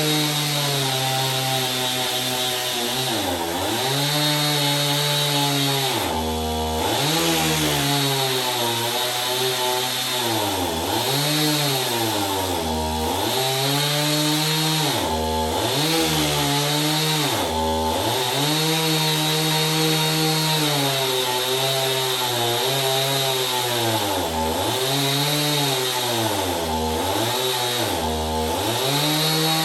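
Power tool working into hard rough-cut hardwood, its motor running with a steady whine that bogs down in pitch under load and recovers again and again, about every second or two.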